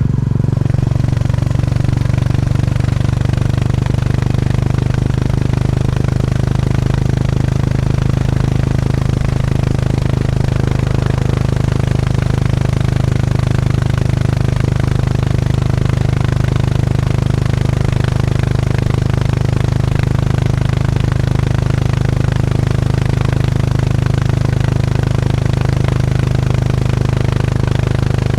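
Single-cylinder motorcycle engine running at steady, unchanging revs.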